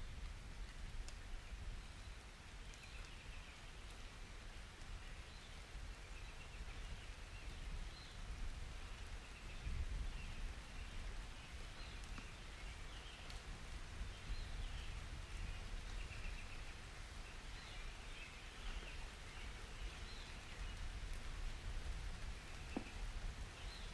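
Gentle summer rain falling, with birds chirping throughout and a faint low rumble underneath.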